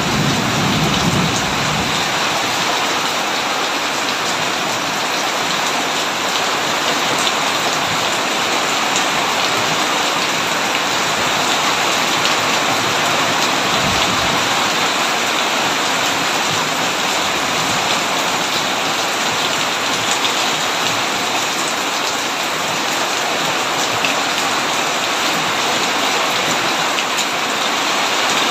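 Heavy rain pouring steadily on a tin roof, with a low rumble of thunder in the first couple of seconds and a brief one about halfway through.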